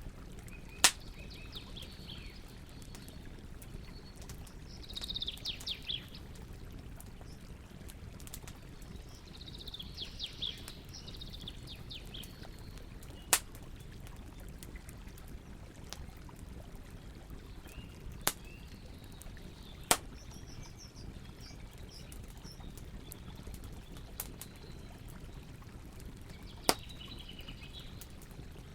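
Campfire crackling, with a low steady hiss and about five sharp, loud pops spaced several seconds apart. Birds chirp in short bursts in the background.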